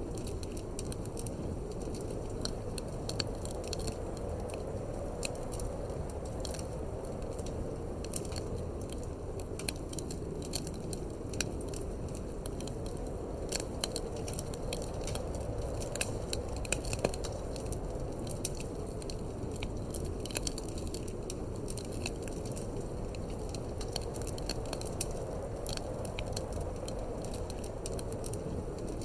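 Wood fire in a fireplace crackling, with frequent irregular sharp snaps and pops over a steady low rumble of wind.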